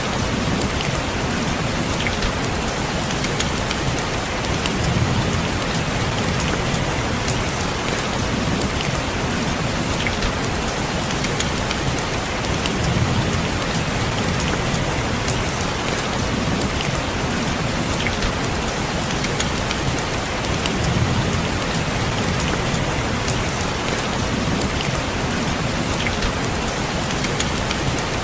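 Steady rain falling on a window, an even hiss with fine drop ticks, and a low rumbling swell that rises and falls about every four seconds.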